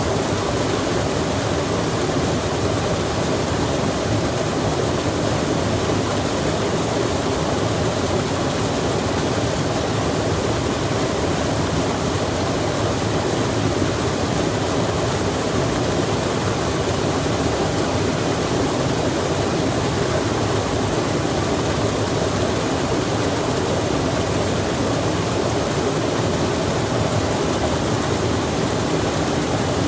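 Steady, unbroken rushing of flowing water, with no other events.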